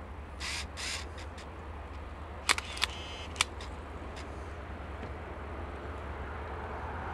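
Low, steady rumble of a distant diesel locomotive slowly hauling a freight train of hopper wagons. Around two and a half to three and a half seconds in come three sharp clicks, the loudest sounds, one followed by a short metallic ringing.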